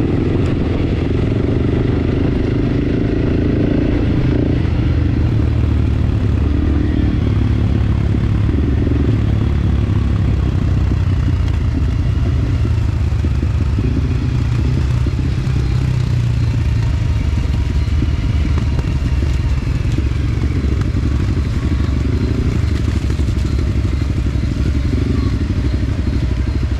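Enduro dirt bike engine running steadily as the bike rides a rough trail, with clatter and knocks from the bike over the terrain.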